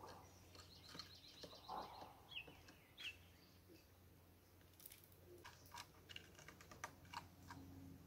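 Faint sounds of small birds at a wooden feeder: a quick run of high notes, two short chirps, then a series of light sharp taps of beaks pecking at seed on the wood.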